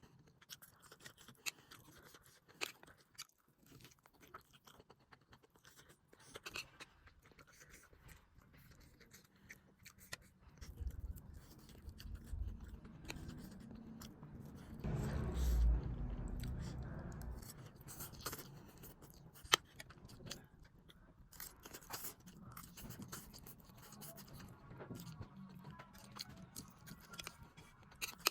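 Close-up eating sounds of spicy noodles with sausage and eggs: chewing and wet mouth noises with many small clicks, and a louder, deeper stretch around the middle.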